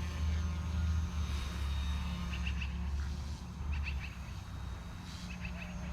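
GOOSKY S1 electric RC helicopter in flight in idle-up 1: a steady, smooth low rotor hum with a faint high motor whine over it. Short high chirps come three times, about a second and a half apart.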